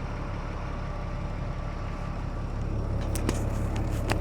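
Rollback tow truck's engine running at low speed as it is manoeuvred, heard from inside the cab, getting a little louder toward the end, with a few sharp clicks near the end.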